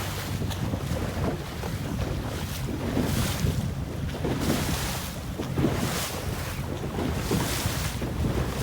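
Wind buffeting the microphone over water rushing and splashing against the hull of a Laser dinghy sailing upwind, the splashes coming in repeated surges.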